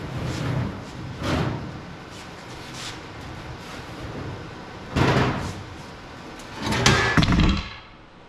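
Steel hood of a Chevrolet Advanced Design pickup being handled off the truck: a few separate metal clunks and scrapes, then a louder clattering knock with a brief metallic ring near the end.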